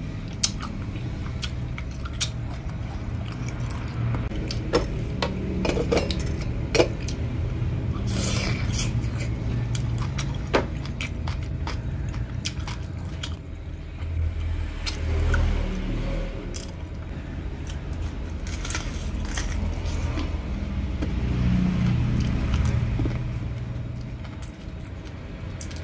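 Close-up eating sounds of a person chewing braised pork trotter: wet chewing and lip smacks with scattered short clicks. A steady low rumble runs underneath.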